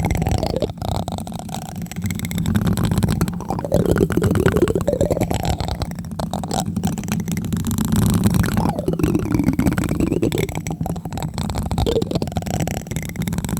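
Plastic spoon tapping and rubbing directly on a microphone, close up: a quick, continuous patter of taps with a low, muffled boom under each contact.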